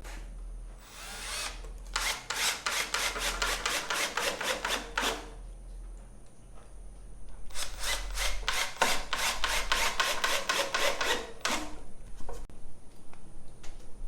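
Power drill working into wood in two runs, about three and four seconds long, each with a rapid even pulsing, with a short burst before them and a few single clicks after.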